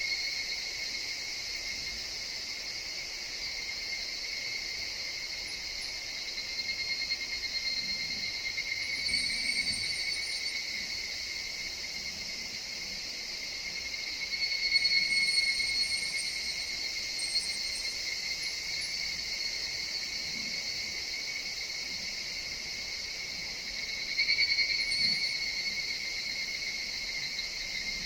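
A chorus of higurashi (evening cicadas) calling steadily in a forest, swelling louder a few times as calls overlap.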